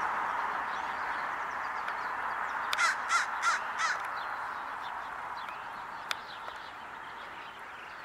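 A bird gives four short, harsh calls in quick succession about three seconds in, over a steady background hiss with faint high chirps of small birds.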